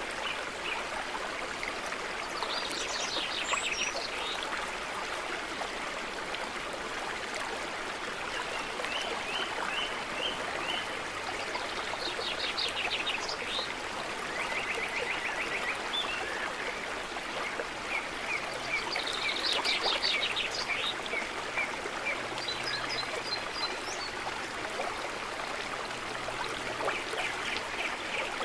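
A small stream running with a steady rush of water, while songbirds sing over it in short, fast trilled phrases that come every few seconds.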